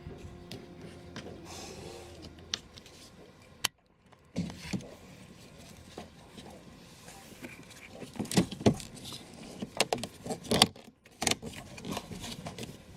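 A steady hum that stops about three and a half seconds in, followed by an uneven run of sharp clicks and light rattles, like small hard parts being handled, thickest in the second half.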